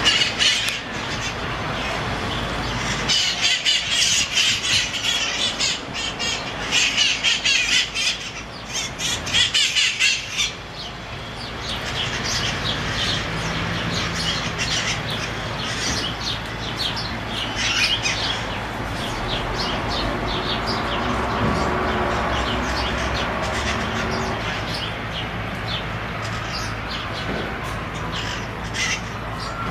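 A flock of San Francisco's feral red-masked parakeets (cherry-headed conures) squawking and bickering in the tree overhead, many harsh, screechy calls overlapping. The calls come thickest and loudest for several seconds from about three seconds in, then thin out to scattered squawks over a low, steady background rumble.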